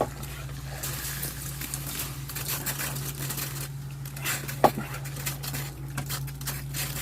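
Frozen evaporator coil of a walk-in freezer being de-iced: a patter of water and loosened ice with many small clicks, over a steady low hum. One sharp ringing clink comes about two-thirds of the way through.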